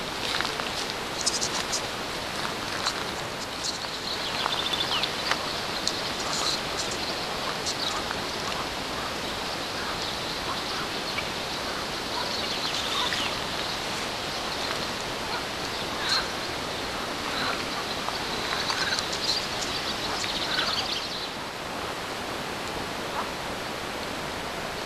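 Birds calling with short chirps scattered throughout, over a steady rushing hiss.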